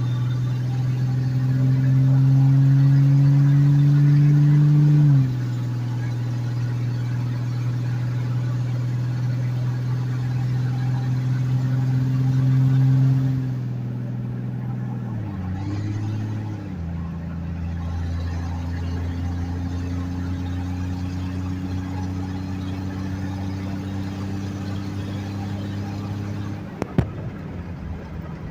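1994 Jeep Grand Cherokee's 4.0-litre straight six, straight-piped with no catalytic converter and no muffler, accelerating gently from a stop: the exhaust note rises in pitch, drops at gear changes about five seconds and about thirteen to sixteen seconds in, then settles into a steady cruise. Near the end the exhaust gets quieter and there is a single click.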